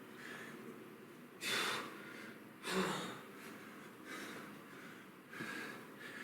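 A man breathing hard through a kettlebell exercise, with soft breaths about once a second and two loud, sharp exhales about a second and a half and nearly three seconds in.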